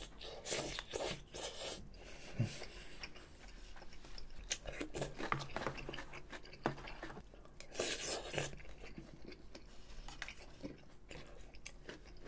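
Close-miked eating of spicy gukbap (Korean rice soup): wet chewing with many small clicks and mouth sounds, and a wooden spoon scooping from the bowl. There is a longer rush of noise about eight seconds in.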